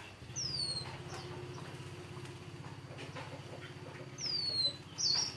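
A songbird gives two clear, descending whistled calls about four seconds apart, with a short high note near the end. Underneath runs a low, steady engine-like hum.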